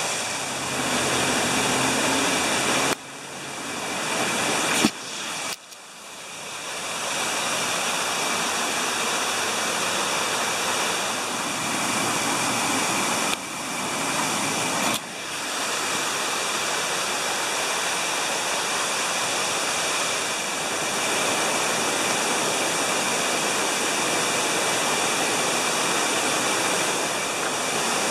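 Artificial waterfall beside the course: water falling steadily in a loud, even rush. The sound cuts off abruptly and comes back several times in the first fifteen seconds.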